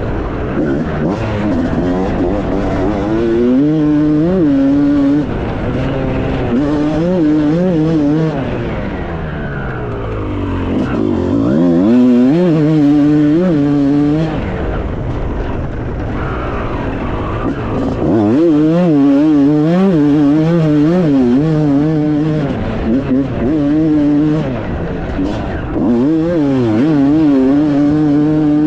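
Motocross bike engine running on a slow lap. Its pitch keeps rising with the throttle and dropping back as the rider eases off or shifts gear.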